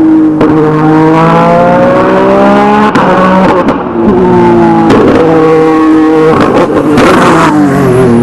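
Peugeot 208 T16 Pikes Peak race car's twin-turbo V6 at full throttle, very loud. The engine note climbs in pitch and drops sharply several times as it accelerates and shifts gear.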